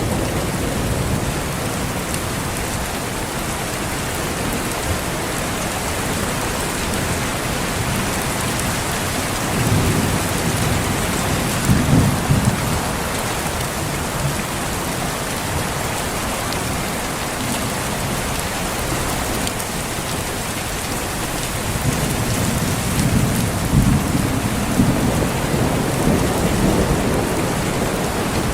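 Steady rain falling in a rainforest, with distant thunder rolling twice: a low rumble about ten seconds in, and a longer one from about twenty-two seconds until near the end.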